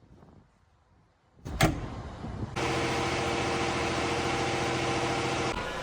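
A sharp knock about a second and a half in, then a large tractor's engine starting and running steadily, dropping slightly in level near the end.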